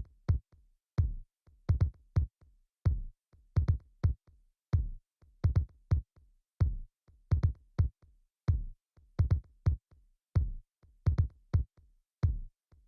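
Electronic drum-machine beat on its own: deep kick drum hits whose pitch drops as each dies away, in a sparse pattern of single and doubled hits with silence between them and no other instruments.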